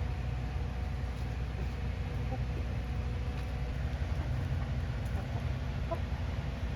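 Laying hens clucking softly now and then, a few short calls scattered through, over a steady low rumble.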